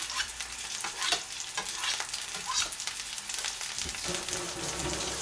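Chicken breast steak patties sizzling steadily in a frying pan. Several sharp knife taps on a cutting board over the first couple of seconds, as the last pieces of chive are cut.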